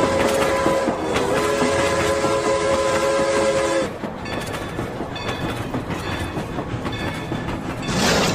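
Rail King toy train's sound effects: a steady horn note lasting about four seconds, briefly broken about a second in, then a run of clicking like wheels on rails, and a burst of hiss near the end.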